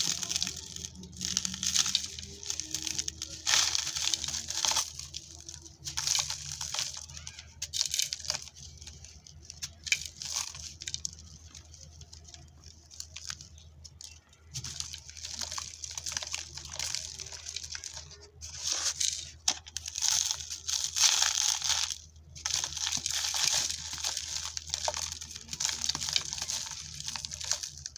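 Dry, dusty red dirt chunks crunching and crumbling in irregular bursts of crispy, gritty crackling, with short pauses between.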